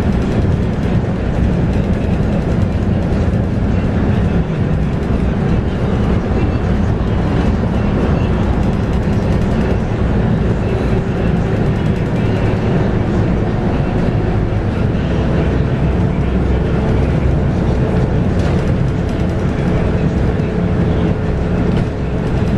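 Scania K230UB bus heard from inside the cabin, its 5-cylinder Scania DC9 diesel and ZF Ecomat automatic gearbox running steadily under way, with road noise. A faint steady whine becomes clearer in the last third.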